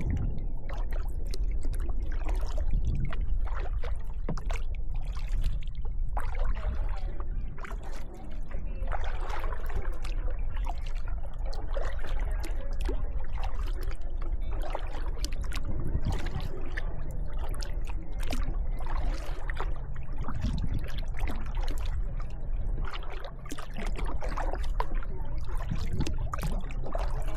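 Kayak paddling: paddle blades splashing into the water and water trickling and dripping off them, in many short splashes over a steady low rumble.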